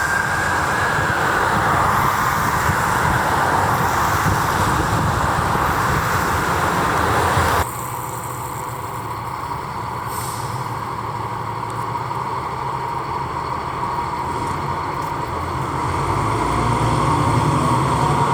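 An emergency vehicle passing, its siren fading out in the first couple of seconds, followed by heavy engine and road noise. The sound changes abruptly about seven and a half seconds in to quieter traffic noise, with a vehicle engine growing louder near the end.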